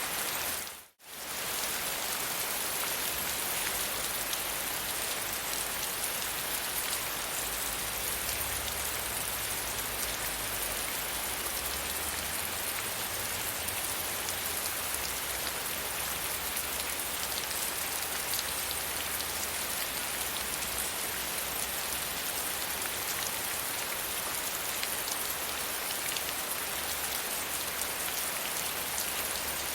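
Steady gentle rain falling, an even patter with no thunder. The sound cuts out briefly about a second in, then returns at the same level.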